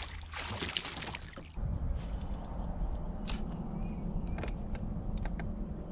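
Water splashing for about a second and a half, then a boat motor starting a low, steady hum, with a few light clicks over it.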